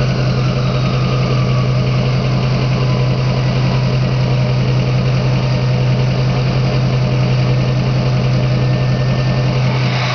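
Straight-piped 6.0L Powerstroke V8 turbo-diesel idling steadily with a loud, even exhaust drone. Over the first couple of seconds a faint turbo whistle falls in pitch as the stock turbo spools down.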